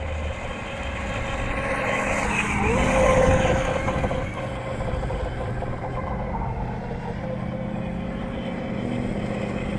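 Steady whine of a small radio-controlled craft's electric motors, growing louder to a peak about three seconds in and then easing back to a steady level.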